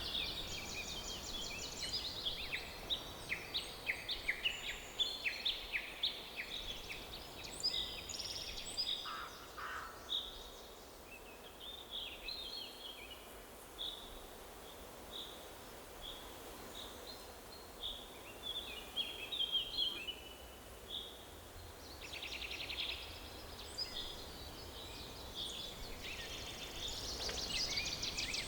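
Several songbirds chirping and trilling at once, many short, quick high notes, busy at first, thinning out in the middle and busy again near the end, over a faint steady hiss of outdoor background.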